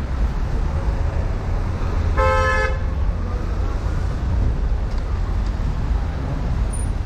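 A single short car horn toot about two seconds in, over the steady low rumble of road traffic.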